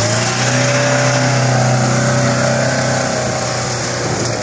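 Nissan Patrol's engine revving hard in first gear as the 4x4 climbs a steep slope of soft, loose dirt, its wheels digging in. The revs hold steady, then ease off near the end as it loses power on the climb.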